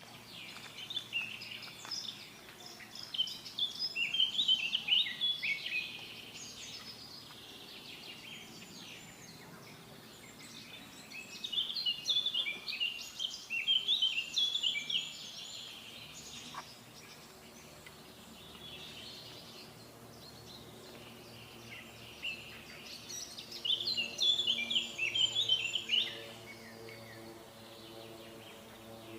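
Small songbird twittering in three long bouts of rapid, high chirps, each lasting a few seconds, with softer scattered chirps between them.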